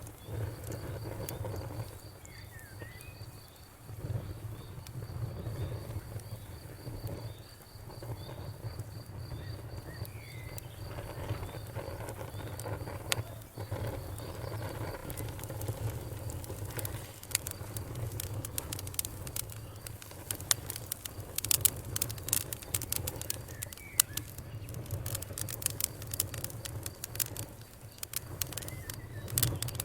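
Wood fire in a fireplace crackling, with sharp pops and snaps over a low steady rumble; the pops come much thicker and louder in the second half.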